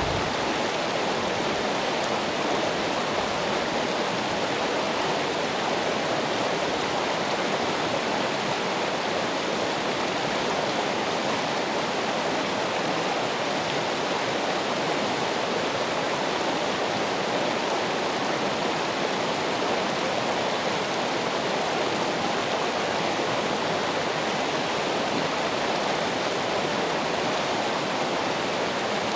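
Flowing water running steadily, an even rushing hiss with no separate splashes or drips.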